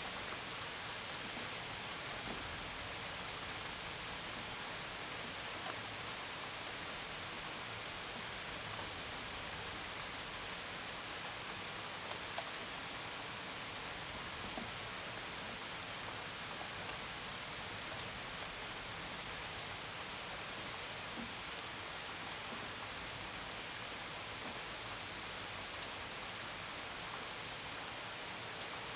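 Steady gentle rain with a few sharper single drops, and faint crickets chirping in a repeating series high above the rain.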